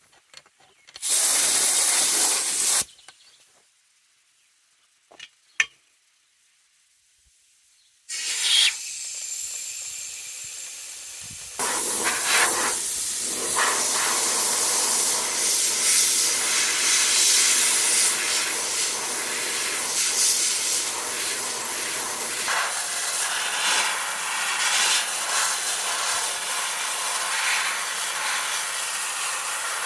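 Sandblaster with a small 3/32-inch nozzle blasting fine-grit abrasive media onto a rusty steel truck frame: a short burst of loud hiss about a second in, a pause with a couple of clicks, then a softer hiss that jumps to a full, steady blast hiss about twelve seconds in.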